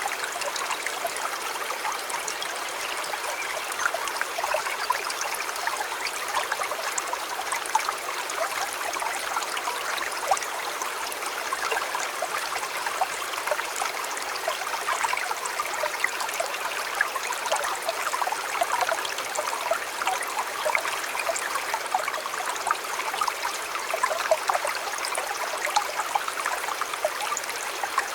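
River water flowing steadily and evenly, a continuous babble of many small trickles and splashes.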